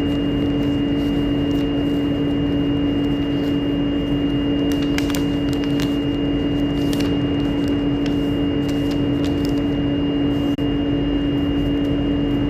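A steady machine hum at one fixed pitch, unchanging throughout, with a few faint clicks over it.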